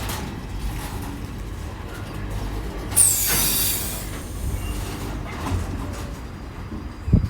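Train running through the station with a steady low rumble of wheels on rail. About three seconds in there is a sudden loud hiss lasting about a second, with a short high squeal that falls in pitch.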